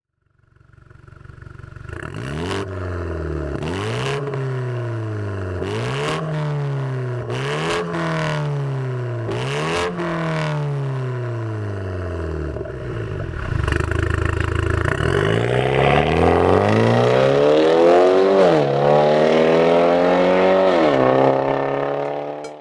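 BMW 530i G30's turbocharged four-cylinder through an aftermarket Fi Exhaust system, revved sharply five times with each rev falling back slowly, then a longer climbing pull that drops once and climbs again.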